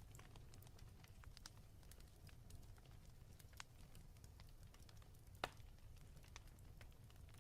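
Faint fireplace crackling: scattered small pops and clicks of burning wood over a low, steady rumble, with one sharper, louder pop about two-thirds of the way through.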